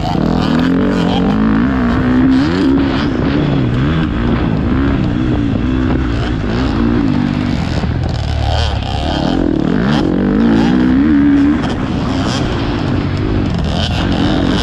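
Motocross bike engine revving, its pitch rising and falling again and again as the throttle opens and closes.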